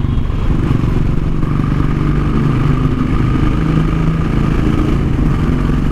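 Royal Enfield Bullet single-cylinder engine running steadily through an aftermarket 'Indori' silencer, a dense, even exhaust thump. It is echoing inside a road tunnel.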